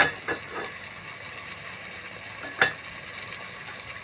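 A cooking pot's lid being handled: a sharp click at the start, two softer ones close behind, and another about two and a half seconds in, over a steady low hiss.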